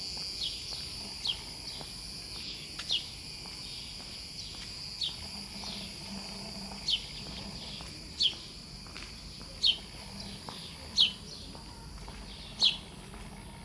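A bird repeats a short, falling call about every one and a half seconds, growing louder, over a steady high insect drone.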